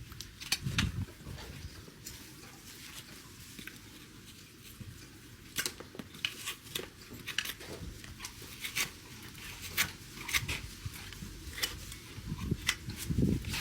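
Horse's hoof being trimmed: irregular crisp cutting snips and scrapes on hoof horn, with a couple of low thumps near the start and near the end.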